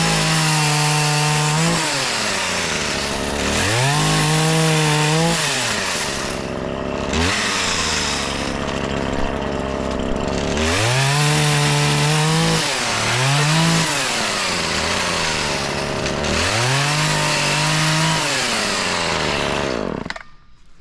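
Two-stroke chainsaw cutting wood, opened to full throttle in about five long bursts with short blips between, dropping back to idle each time. It shuts off just before the end.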